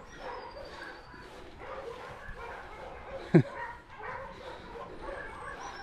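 Many dogs in a kennel barking and yipping at once, a steady overlapping chorus at some distance. About three and a half seconds in there is one short, loud, sharp sound that drops quickly in pitch.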